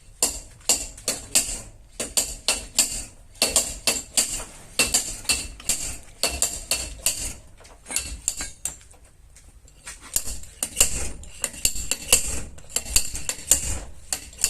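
Hammer tapping on car body sheet metal: quick, light, ringing metal strikes, several a second, with a pause of about two seconds just past the middle.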